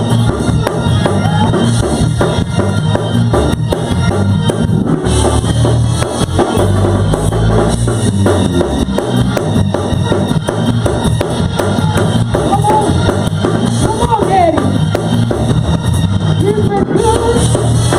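Live church band playing a fast gospel praise break for dancing, a drum kit driving a quick steady beat over heavy bass.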